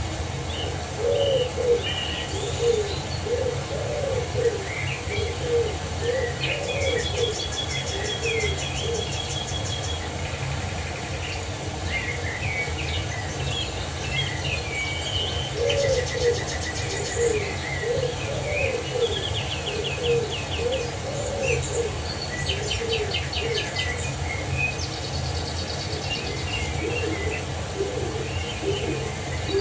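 Mixed birdsong: several small birds chirping and trilling in short high phrases over bouts of repeated low cooing notes. A steady low rush of water from a waterfall runs beneath it.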